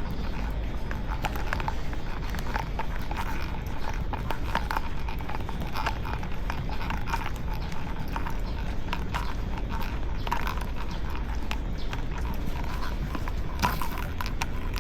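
Footsteps and light, irregular tapping and clicking from people and dogs out walking, over a steady low rumble.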